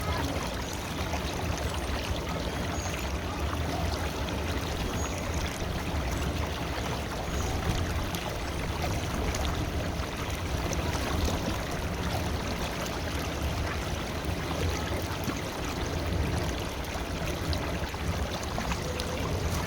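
River water flowing, a steady even wash of noise with no breaks.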